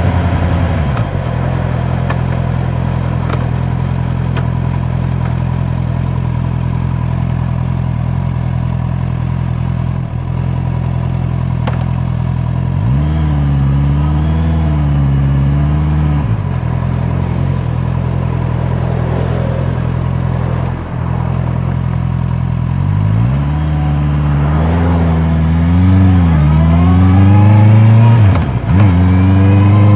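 Honda CB650R's inline-four engine and exhaust. The revs drop and hold steady at a low speed. They rise and fall briefly midway, then climb steadily under acceleration, with a quick dip for a gear change near the end before climbing again.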